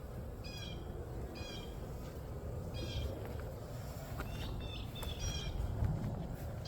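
Short, high-pitched animal calls, about six of them, repeated roughly once a second over a steady low rumble.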